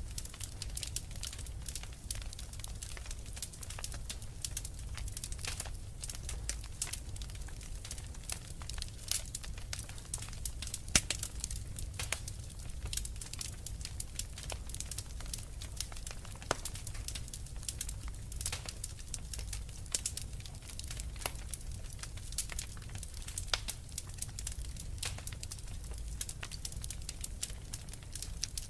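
Wood fire crackling in a fireplace: irregular sharp pops and snaps over a low rumble, with one louder pop about eleven seconds in.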